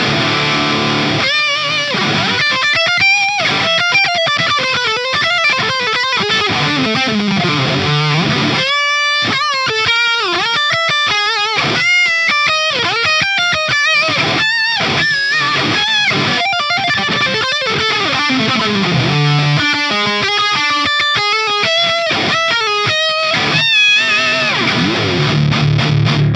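Distorted electric guitar through a Soldano SLO-100 clone amp with the gain turned up high, playing pentatonic lead licks with string bends and vibrato, quick runs, and low held notes near the end.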